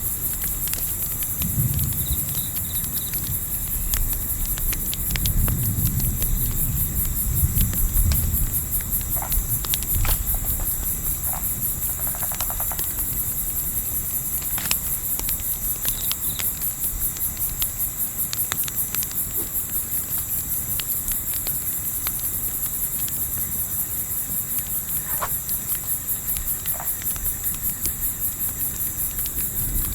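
Crickets chirping in a steady, fast pulsing trill, over the scattered snaps and crackles of a campfire. Low gusts of wind rumble during the first several seconds.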